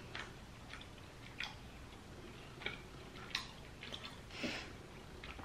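Faint chewing of a sweet jelly candy: small, irregular wet mouth clicks, a few every couple of seconds.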